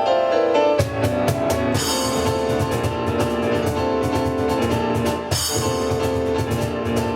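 Live instrumental piano and percussion: piano notes, then the percussion comes in hard about a second in with fast, dense strikes under the piano.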